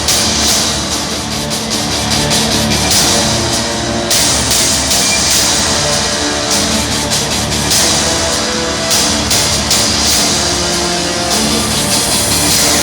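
Loud live band music with drums and amplified instruments playing continuously.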